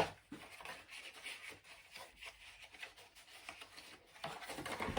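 Scratchy rubbing and rustling as the unboxed items are handled, with a sharp knock right at the start and a louder stretch of rustling near the end.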